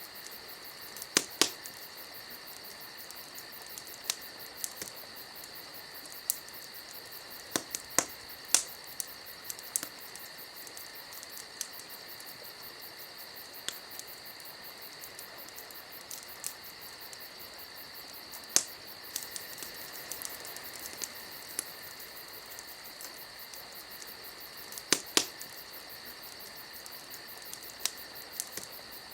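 Wood campfire crackling: sharp, irregular pops, a few much louder than the rest, over a steady high-pitched hiss.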